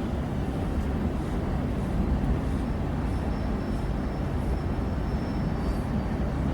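Train running with a steady low rumble, and a faint thin high-pitched squeal for a few seconds in the middle.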